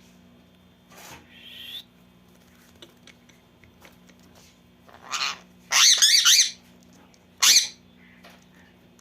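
Pet parrots squawking and screeching in a squabble: a short call about a second in, then three loud, harsh screeches in the second half, the middle one longest and wavering.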